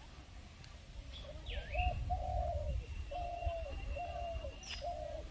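A dove cooing in a run of short, low, even notes that start about a second and a half in. Another bird gives a swooping whistle as the cooing begins, and a long thin high note runs above it in the middle. A low rumble runs underneath.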